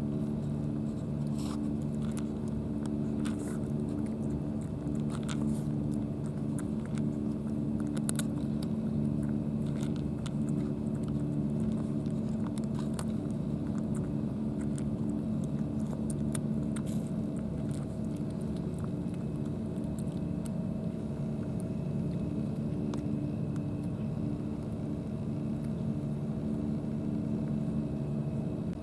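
Steady low motor hum made of several held tones, with scattered small clicks over it.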